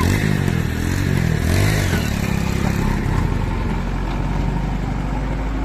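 JCB 3DX backhoe loader's diesel engine working under load, its pitch rising and falling over the first two seconds, then running steadier.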